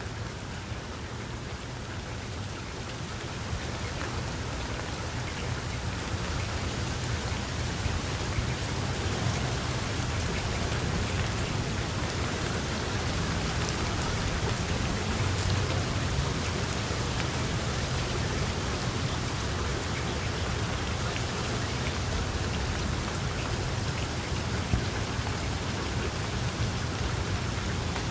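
Steady rain falling, a dense patter with scattered individual drops, over a low rumble. It grows louder over the first several seconds and then holds steady.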